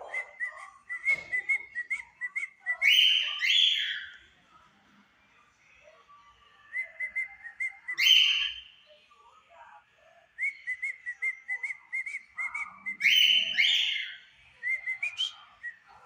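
Cockatiels whistling their song: three phrases, each a run of quick short chirping notes that ends in two or three loud, longer whistles.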